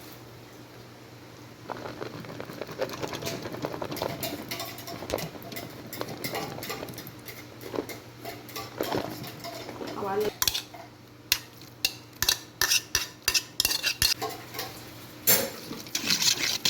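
Kitchen utensils clattering and scraping against pots and dishes, with a run of sharp clinks about ten seconds in.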